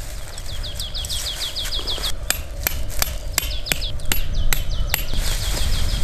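A small bird sings runs of quick, high, down-slurred notes, repeated in three bursts. From about two seconds in, a string of sharp knocks comes from a tent stake being tapped into the ground with a hatchet.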